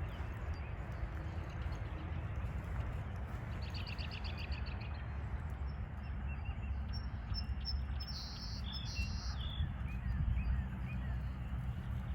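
A few distant peeping calls from small pond frogs, which the uploader calls toads, as short rising notes near the end, with a fast trill about four seconds in and bright chirps about eight seconds in. All of it sits over a steady low rumble.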